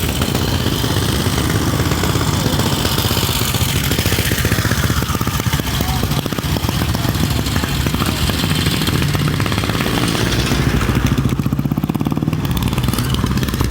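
Antique motorcycle engine running steadily.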